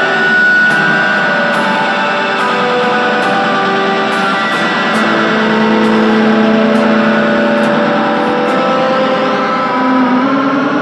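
Electric guitar, a Fender Telecaster, played through a Boss DD-3 digital delay pedal: a dense wash of held, overlapping notes and their repeating echoes, with a wavering bend in pitch near the end.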